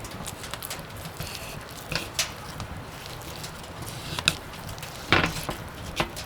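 Scattered light clicks and knocks over a low steady background, with a louder brief rustling burst about five seconds in.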